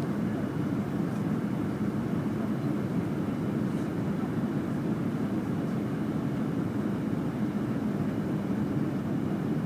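Steady cabin noise inside a Fokker 100 jet airliner in flight: its rear-mounted Rolls-Royce Tay turbofans and the airflow, a low, even drone.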